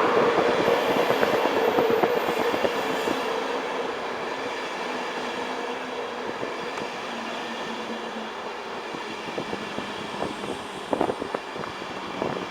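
East Coast InterCity 225 train, led by a Class 91 electric locomotive, rolling past on the rails, its noise fading steadily, with a few sharp clicks near the end.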